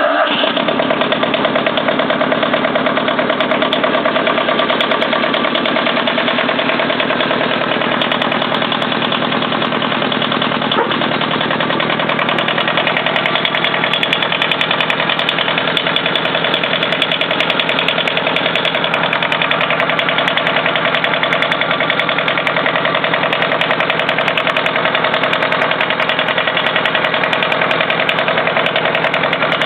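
Kubota engine on a homemade tractor catches right at the start and then runs steadily with an even, fast beat.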